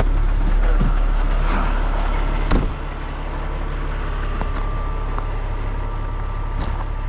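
Heavy diesel truck engine idling with a steady low rumble. A single sharp knock comes about two and a half seconds in, and the sound is a little quieter afterwards.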